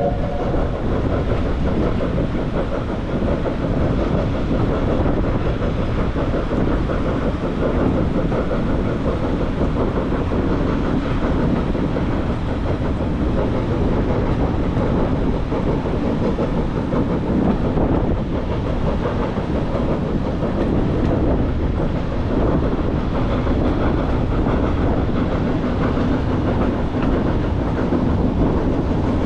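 Steam-hauled passenger train running along the line, a steady rumble and clatter of wheels on rail heard from a carriage. The locomotive's whistle cuts off at the very start.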